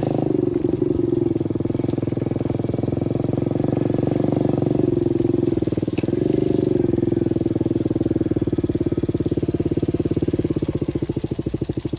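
125cc dirt bike engine running at low revs. It rises briefly about six seconds in. Near the end it slows toward idle, and the separate firing pulses become audible.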